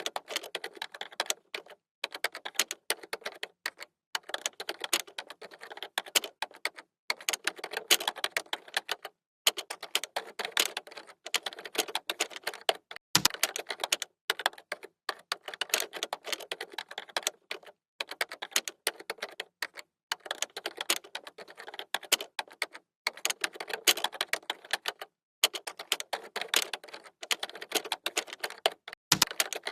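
Computer keyboard being typed on: rapid key clicks in runs of about two seconds, broken by short pauses.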